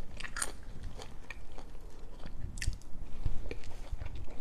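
A person chewing food close to the microphone, with scattered small crunches and wet mouth clicks.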